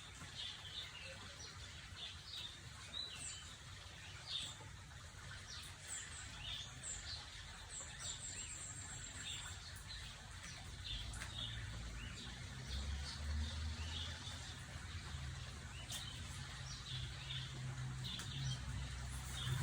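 Small birds chirping in the background, with many short high calls scattered throughout. From about halfway through, a low steady hum comes in beneath them.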